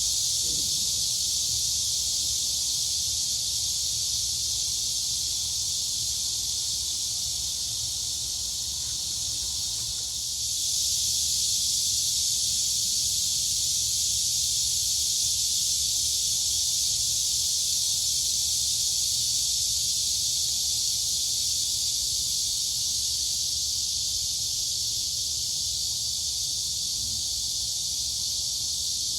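Dense chorus of crickets and cicadas: a continuous high-pitched buzz, dipping slightly for a moment about ten seconds in.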